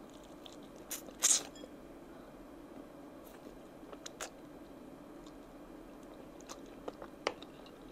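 Mouth sounds of someone biting into and chewing oven-roasted chicken wings: scattered short clicks and bites, the loudest a bit over a second in, over a faint steady hum.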